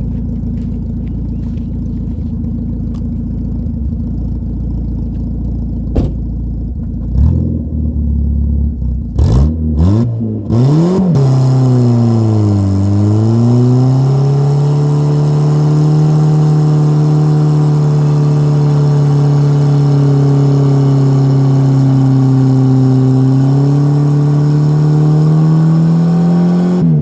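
Dodge Dakota pickup engine, cold, idling with a low steady rumble, then blipped hard a few times about seven seconds in and held at high revs for over ten seconds before dropping off at the end.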